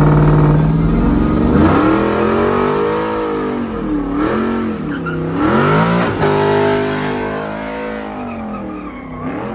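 Vehicle engine doing a burnout, revving up and down several times after a steady opening note, and slowly getting quieter toward the end.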